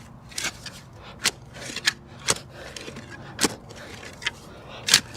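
Shovel digging soil for a fence-post hole: a series of sharp scraping strikes as the blade cuts into the dirt, about one a second, the loudest near the end.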